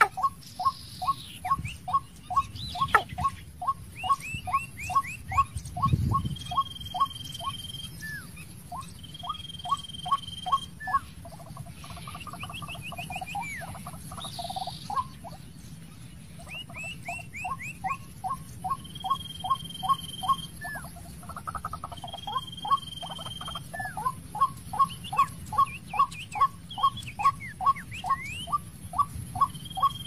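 A bird calling in a long rapid series of short, evenly spaced notes, two to three a second, breaking off now and then and starting again: the call of a caged decoy bird luring wild birds of its kind to the trap. Other birds give long, flat, high whistles and quick falling notes over it, and there is one dull thud about six seconds in.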